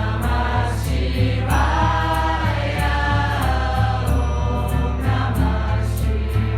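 Kirtan-style mantra chanting: a group of voices sings a devotional chant over music with a steady beat and a pulsing bass line.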